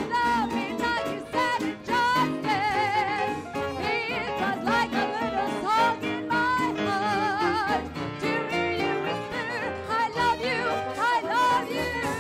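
Big band playing 1930s-style swing music, with the melody carried in a wide vibrato over the full band.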